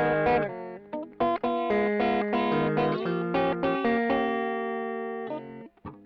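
Electric guitar through a Caline British Sound overdrive pedal, played back from a looper with light distortion. It plays choppy chords and short notes, then holds one ringing chord for over a second near the end, followed by a brief gap before the playing starts again.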